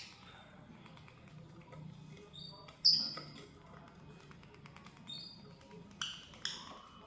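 Lovebird giving short shrill chirps: a loud one about three seconds in and two more close together near the end, with a few softer ones between. Faint light ticking runs under the calls.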